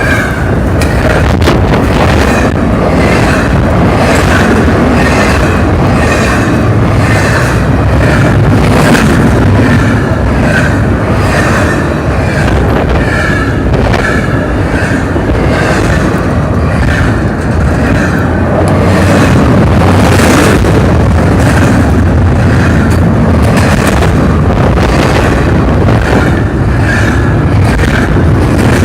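Union Pacific double-stack container train rolling past, loud and continuous, with a regular clack of car wheels over rail joints about once a second.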